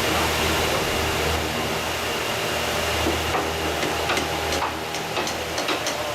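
A machine runs steadily with a low hum. From about halfway through there is a series of sharp knocks or taps.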